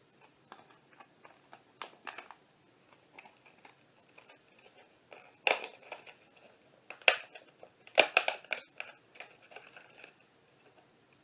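Irregular light clicks and taps, with a few sharper knocks, one at a time, around the middle.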